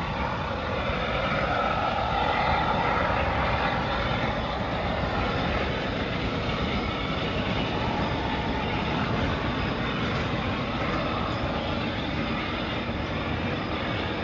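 CSX rail train rolling past with a steady rumbling rail noise that swells slightly a couple of seconds in.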